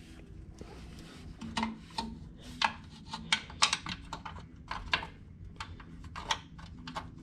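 Hands and tools working at a tractor headlight to reach and check the bulb: a series of irregular sharp clicks and taps.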